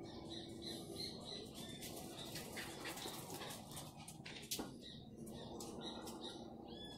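Small birds chirping in short high notes, with a few faint clicks and taps.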